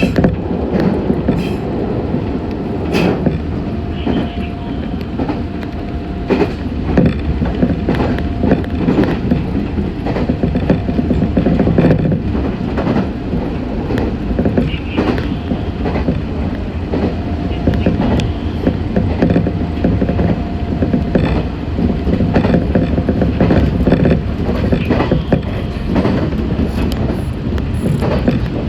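Running noise inside a Meitetsu 6500 series electric train at speed: a steady rumble of wheels on rail with frequent irregular clicks and knocks, and a faint steady whine that comes and goes.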